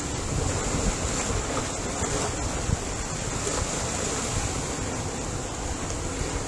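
Ocean waves washing in steadily, a continuous surf noise without any distinct single crash.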